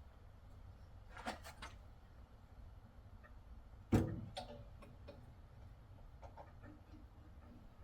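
Small tools and metal parts handled during hand work on a small engine: a few light clicks, one sharp knock just before halfway, then scattered faint ticks.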